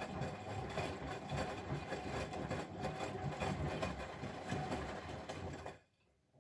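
Bosch Maxx WFL 248Y washing machine running, its motor and drum turning steadily, then stopping suddenly near the end.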